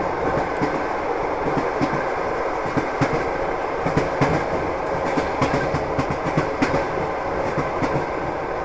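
Passenger train running on the rails: a steady rumble with the wheels clattering and clicking over the track.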